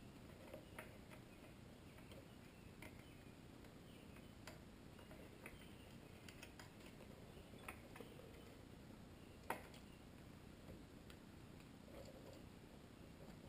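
Faint, scattered small clicks and taps of small headlight parts being handled and fitted, the sharpest about nine and a half seconds in, over near silence.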